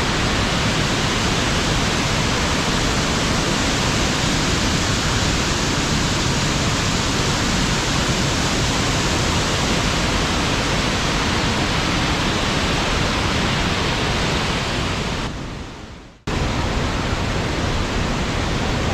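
Loud, steady rushing of the Shifen Waterfall's falling water. About fifteen seconds in it fades away, then cuts back in abruptly a second later.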